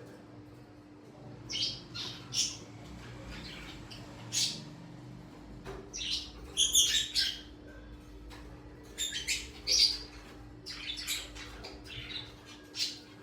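Small birds chirping and squawking in short, irregular calls, with a quick cluster of calls about halfway through and another near ten seconds in. A steady low hum runs underneath.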